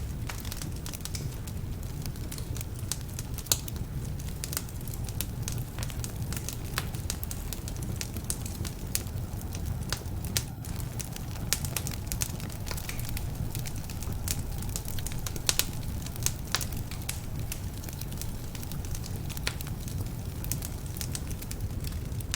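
Wood fire burning in a fireplace: a steady low rumble of flames with frequent sharp crackles and pops from slightly damp logs. A few pops stand out louder, one about three and a half seconds in and a couple around the middle.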